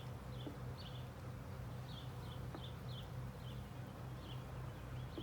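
Honeybees buzzing around an open hive as a colony is being moved in: a steady, fluttering low hum of many wings.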